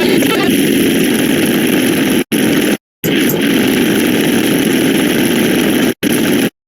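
A loud, dense wash of sound effects stacked on top of each other, as happens when a counting sound plays for every number at very high speed. It is cut off abruptly by short gaps of silence, about two to three seconds in and again near the end.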